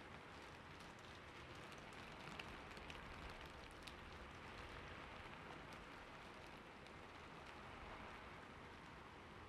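Faint, steady hiss with a few scattered tiny ticks.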